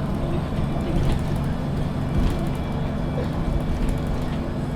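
MAN NG 313 CNG articulated city bus heard from inside while driving: the gas engine runs steadily under road noise. A couple of knocks or rattles come about one and two seconds in.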